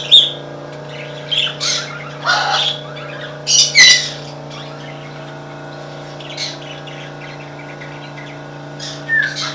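Caged parakeets chirping and squawking in short, irregular bursts, over a steady low hum.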